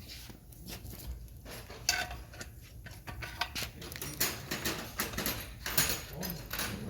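Irregular metallic clinks and rattles from screws and aluminum gate rail parts being handled, growing busier after about three seconds.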